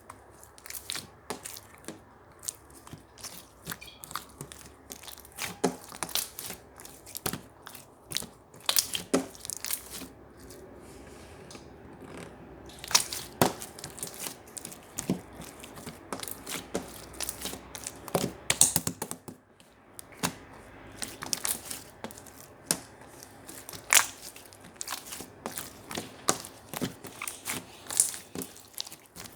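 Yellow marbled slime worked by hand, squished and pressed, making irregular sticky clicks, crackles and pops, some of them sharp and loud.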